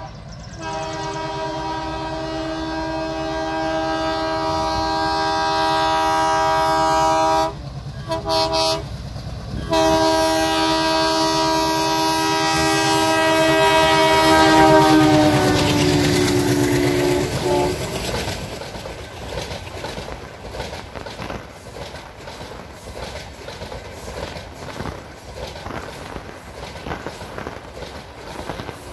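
WDM3A ALCO diesel locomotive sounding a long, loud horn, broken twice briefly, whose pitch drops as the locomotive passes. Then comes the rhythmic clickety-clack of the LHB coaches' wheels over the rail joints as the train rolls by.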